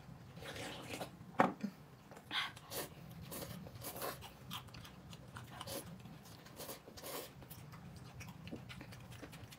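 A person chewing and biting food close to the microphone: irregular soft crunches and mouth clicks, the loudest crunch about a second and a half in.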